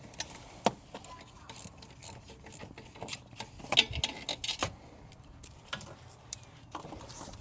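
Irregular metallic clicks and clinks of a hand ratchet with a universal joint and socket being worked on a tight bolt by hand, with a couple of sharper knocks near the middle.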